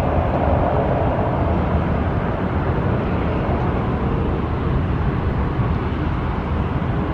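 Boeing 777-200ER's twin jet engines at takeoff power: a steady, heavy rumble that eases off slightly as the aircraft moves away.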